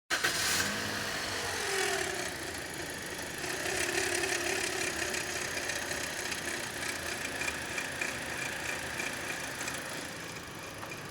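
Car engine idling with a steady high whine from the V-belt adjuster pulley bearing, the sign of a worn tensioner bearing. A lower tone wavers up and down over the first few seconds.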